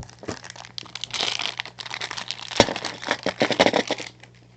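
Toy car packaging crinkling and crackling as it is handled, with dense irregular crackles and one sharper click about halfway through.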